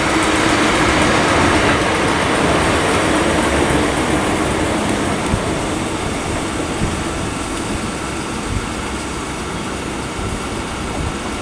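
Class 455 electric multiple unit running into the platform, loudest about a second in and slowly fading as it slows, with a steady hum and a few faint clicks of wheels over rail joints.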